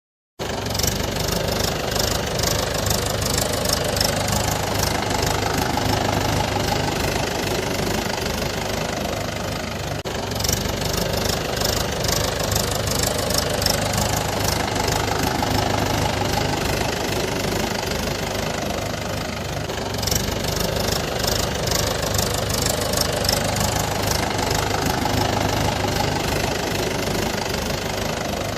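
Large truck engine idling steadily, cutting in abruptly from silence at the start; the same pattern repeats about every ten seconds.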